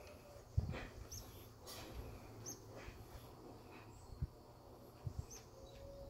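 A man chewing a mouthful of food with his mouth closed: faint, irregular wet clicks and smacks.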